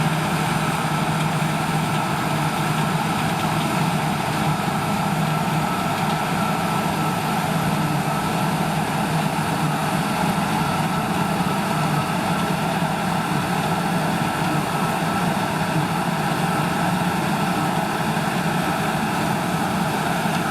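Heavy diesel farm machinery running steadily at constant speed, a continuous even drone with a steady whine above it.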